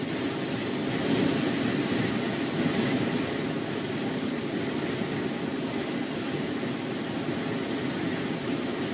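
Wind buffeting the outdoor nest-camera microphone: a steady rushing that swells briefly about a second in, like a gust.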